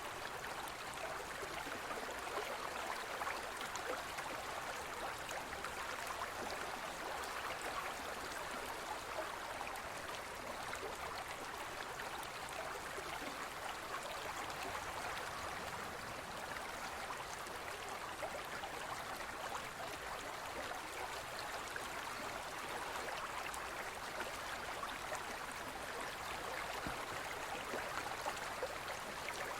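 Forest stream flowing over rocks: a steady, even rush and burble of running water.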